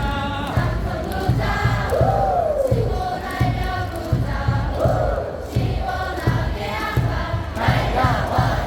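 Korean baseball crowd singing and chanting a cheer song together over amplified music with a steady beat.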